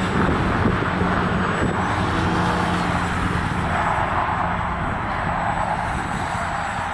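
Electric RC T-28 Trojan model plane's brushless motor and propeller droning steadily in flight at about three-quarter throttle, drifting slightly in pitch, with strong wind buffeting the microphone.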